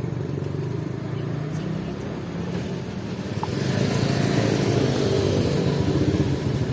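Motorcycle engine running steadily, getting louder with a rising hiss from about halfway through.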